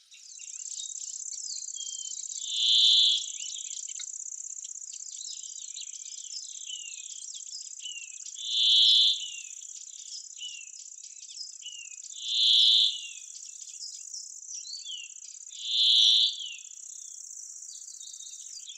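Steady high-pitched insect trill of crickets in a summer oak wood, with small birds chirping. Four louder short calls come about every three to four seconds and are the loudest sounds.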